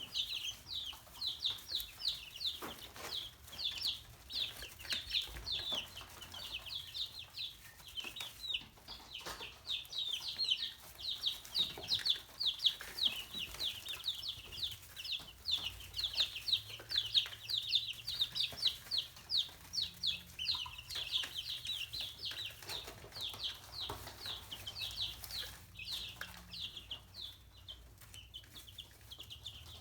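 Chicks cheeping: a constant stream of short, high, falling peeps, several a second.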